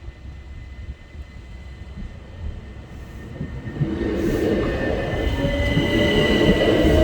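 Electric multiple-unit train growing louder from about halfway through, with a low rumble and a motor whine that slowly rises in pitch as it gathers speed.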